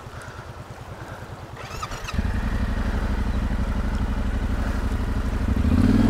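Motorcycle engine idling with an even pulse; about two seconds in the throttle opens and it runs much louder as the bike pulls away. It picks up again near the end.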